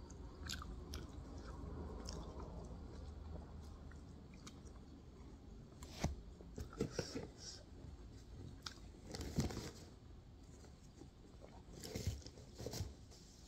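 Close-up mouth sounds of a person chewing and biting steamed pork momos, soft and wet, with a few sharper smacks and clicks in clusters about six, nine and twelve seconds in.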